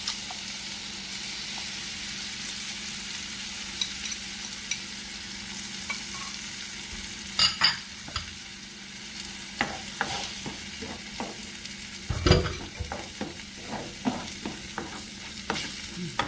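Shrimp and beaten egg sizzling in oil in a nonstick frying pan. From a little past halfway, a spatula scrapes and taps against the pan as the egg and shrimp are stirred, with a louder knock about twelve seconds in.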